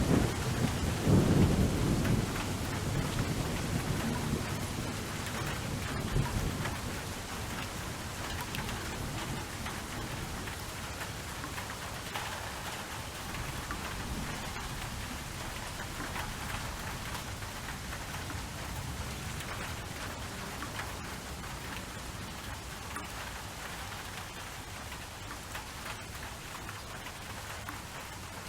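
Steady rainfall, with a roll of thunder rumbling loudly at the start and dying away over the first several seconds.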